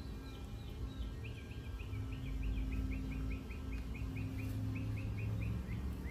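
A bird singing a long, quick series of short downward-slurred chirps, about four a second, starting just after the beginning and going on until near the end, over a louder low steady hum.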